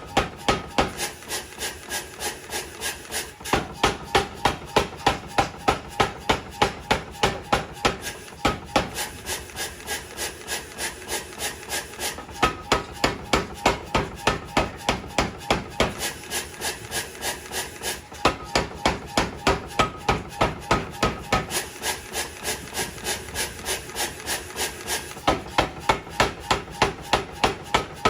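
Forging hammer striking hot metal in a fast, even rhythm of about three or four blows a second, in repeating runs of louder and softer strikes.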